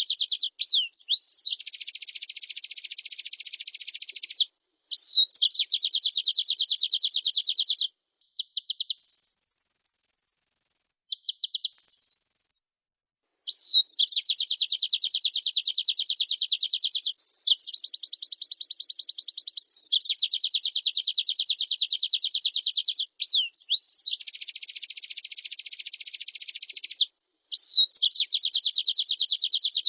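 Pleci (white-eye) singing vigorously in long bursts of very fast, high trills a few seconds each, linked by quick rising and falling whistled notes. About nine seconds in come two brief, even higher buzzy phrases.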